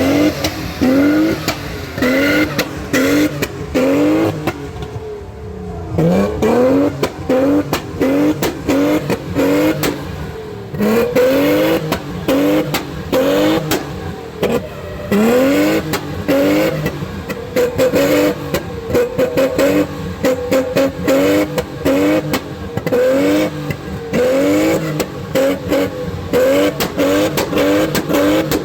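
A car engine revved in rapid repeated throttle blips, each one rising in pitch, with sharp exhaust pops and crackles throughout. There is a brief lull about five seconds in, and the revs are held steadier for a couple of seconds past the middle.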